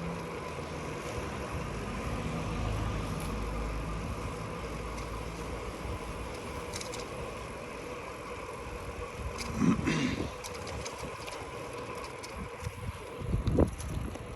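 A motor vehicle engine running steadily, with a short knock about ten seconds in and low rumbling gusts near the end.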